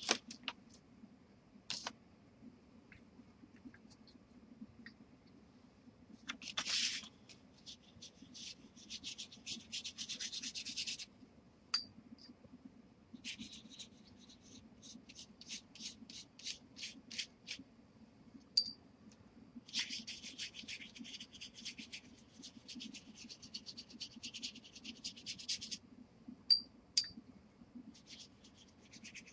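Oil pastel rubbed and scribbled across watercolor paper in quick back-and-forth strokes, coming in spurts of several strokes a second with short pauses between.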